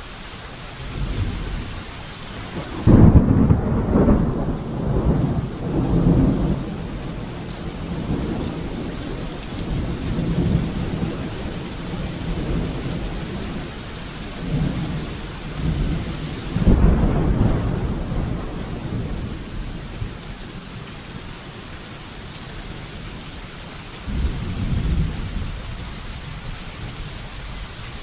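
Steady rain with rolling thunder. A sharp thunderclap about three seconds in is the loudest and rumbles on for several seconds; a second clap comes around the middle and a weaker rumble near the end.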